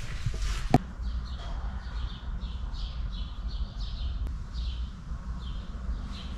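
A bird chirping over and over, about two short falling chirps a second, over a steady low hum, with a single sharp knock just under a second in.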